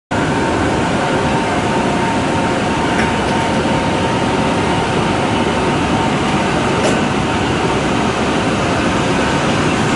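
Train noise: a steady, even rumble and hiss with a faint steady tone above it, and two short clicks about three and seven seconds in.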